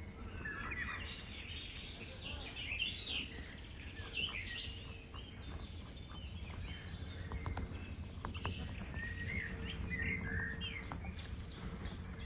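Songbirds chirping and singing, many short overlapping phrases throughout, over a steady low rumble.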